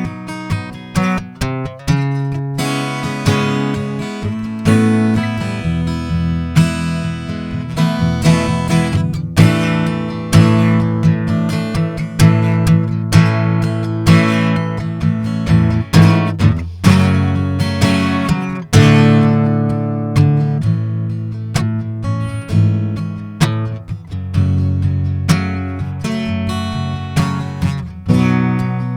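Acoustic guitar strumming chords, an instrumental passage of the song.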